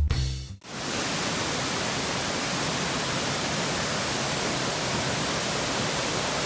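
Steady, even rush of the Seven Sisters waterfall, a continuous hiss of falling water; background music cuts off just after the start.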